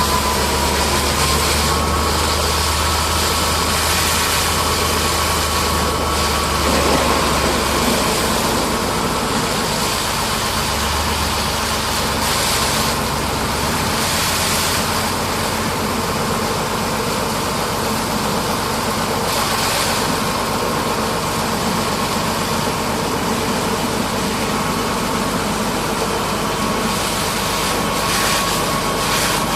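An engine running steadily at idle, with a faint steady whine over it. A hiss swells and fades several times, and a low hum drops away about eight seconds in.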